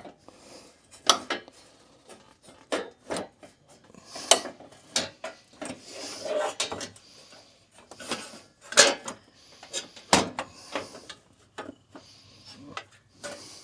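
Irregular clunks, clicks and scraping as a pickup's bumper center support is slid and worked into place against its brackets, with the loudest knocks about a second in, near four seconds, near nine seconds and about ten seconds in.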